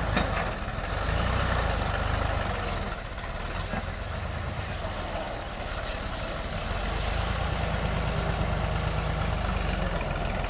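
New Holland Ghazi tractor engine running steadily. It eases off slightly about three seconds in and picks up again about seven seconds in.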